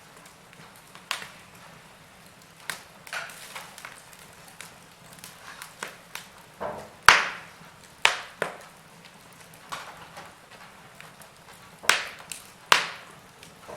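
Wood fire burning in a fireplace, crackling with irregular sharp pops and snaps over a faint hiss; the loudest snaps come about seven and eight seconds in and twice near the end.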